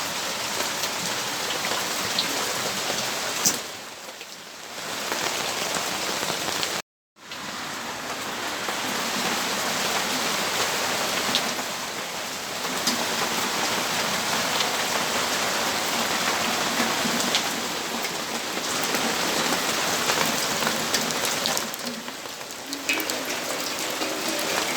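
Steady rainfall with scattered sharper drips. The sound cuts out completely for a moment about seven seconds in.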